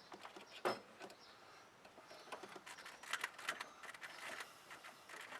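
Faint scattered clicks and light knocks of hands working a fuel filter and its hose in an engine bay, with a sharper click about two-thirds of a second in and a run of small clicks near the middle.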